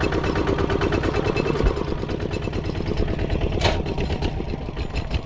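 Small engine running steadily at idle, with an even pulsing beat. A short sharp click comes a little past the middle.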